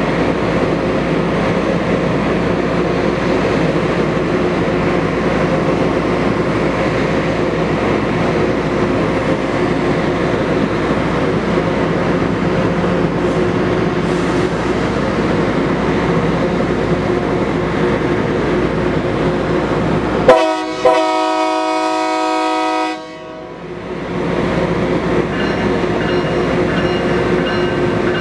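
Steady loud rumble of a train working on the track. About 20 seconds in, a multi-note locomotive horn sounds for about two and a half seconds.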